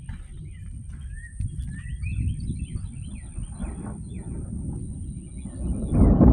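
Songbirds chirping in short, quick notes over a low steady rumble, with a thin high whine in the background. About six seconds in, a much louder low rumble of thunder sets in.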